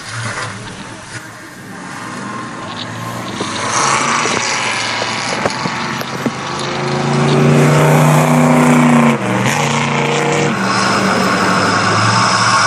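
Engine noise building up: a motor's pitch climbs over several seconds, drops suddenly about nine seconds in, then holds steady and loud, with a rushing hiss behind it.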